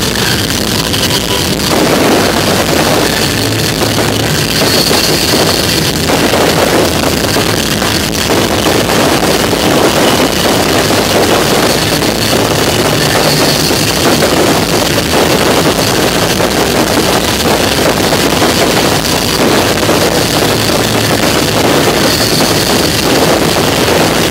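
A dense barrage of aerial fireworks going off, a continuous mass of bangs and crackling that sets in about two seconds in, with music for the synchronized show running underneath.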